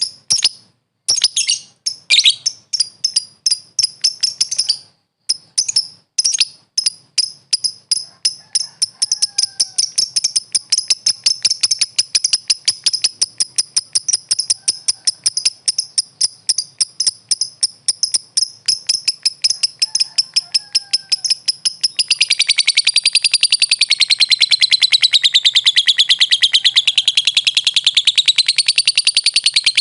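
Lovebird singing: high, sharp chirps that start spaced apart and speed up into a rapid, even chatter, then about two-thirds of the way through run together into one long, unbroken warbling trill that wavers up and down in pitch.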